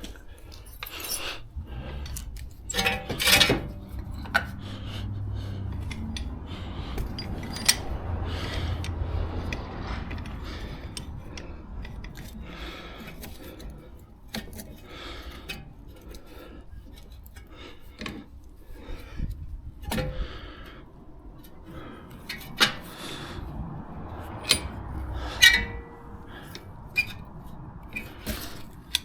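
Metal hand tools and car parts clinking and knocking at irregular moments, with a low hum for several seconds in the first half.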